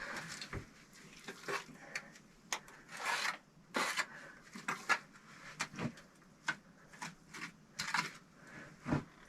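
Irregular scraping and light knocking of bricks and mortar being worked while laying a brick stove, with short rasping strokes and a few sharper knocks.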